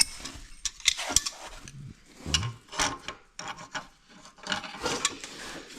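Metal hand tools clicking, knocking and scraping in a quick irregular series, with some rubbing and rasping between the knocks.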